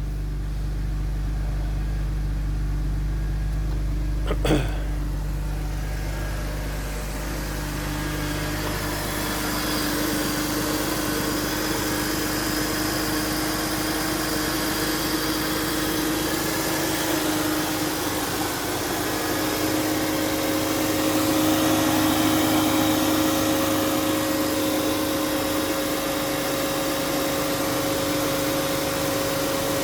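BMW E46 328i's inline-six engine idling steadily, warmed up after a cold start. There is a single sharp click about four and a half seconds in, and the sound turns brighter and hissier after about eight seconds.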